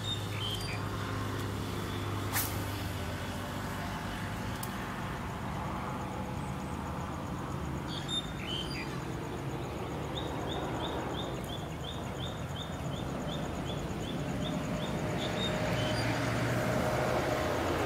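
Steady outdoor background noise with a low hum, broken by short high bird chirps near the start and about eight seconds in, then a run of quick repeated chirps, about three a second, for some five seconds.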